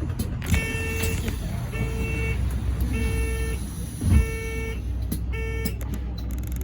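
Electronic warning beeper aboard a London double-decker bus sounding five evenly spaced beeps, each about half a second long, over the low, steady rumble of the bus.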